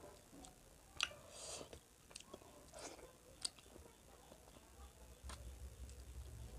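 Close-miked mouth sounds of a person chewing a handful of rice and curry: soft wet chewing with a few sharp lip smacks. A low hum starts near the end.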